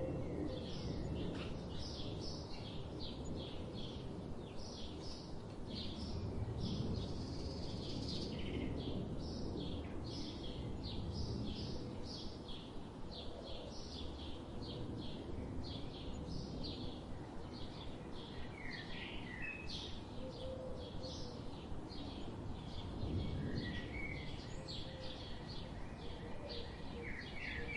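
A bird chirping over and over, short high notes about two a second, with a few lower two-note calls near the end, over a steady low background noise.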